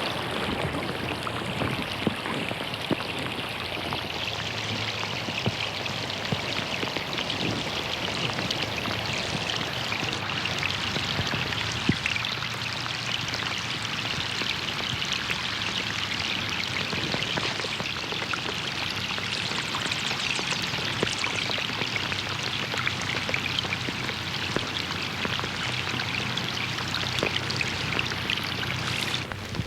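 Rain falling on a pond: a steady, dense patter of drops hitting the water surface, with occasional louder individual splashes.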